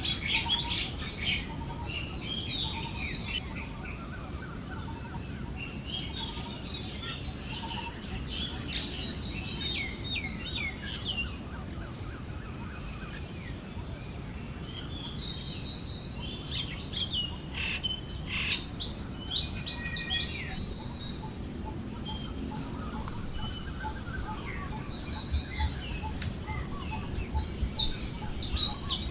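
Forest birds chirping and calling in quick, scattered notes, busiest near the start and about two-thirds of the way through. A steady high insect buzz and a low rush of breeze run underneath.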